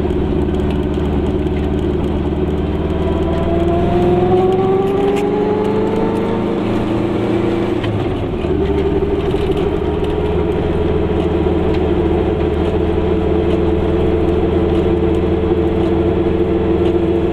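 Goggomobil's air-cooled two-stroke twin-cylinder engine pulling away, heard from inside the small car. Its pitch rises for a few seconds, drops briefly about eight seconds in, then holds steady while cruising.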